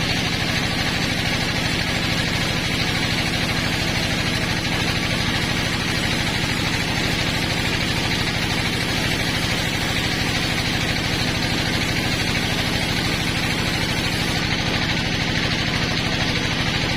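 Sawmill machinery driven by an engine, running steadily at constant speed with an even hum and a band of hiss above it.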